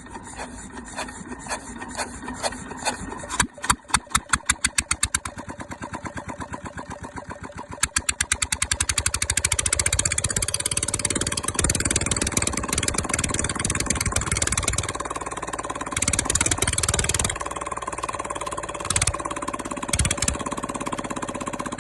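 Diesel engine being started: slow, uneven strokes that quicken over several seconds as it turns over, then it catches about eight seconds in and keeps running, with two brief revs near the end.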